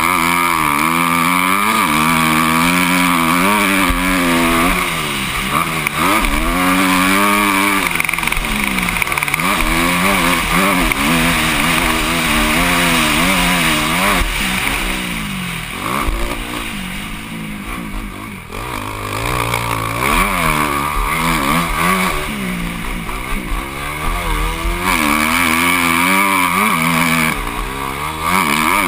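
Motocross bike engine heard from a helmet-mounted camera, revving up and down again and again as the throttle opens and closes and the gears change, with wind rushing over the microphone. It eases off and goes quieter for a few seconds about halfway through, then picks up again.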